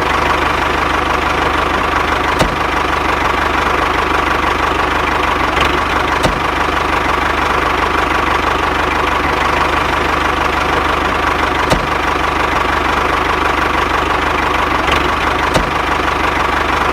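A small motor running steadily, with a few faint clicks.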